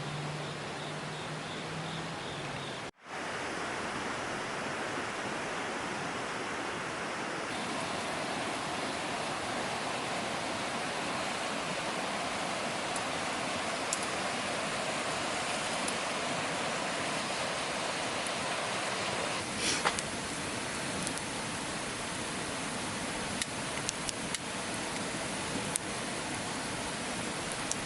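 Steady rushing noise of water, with a few faint clicks.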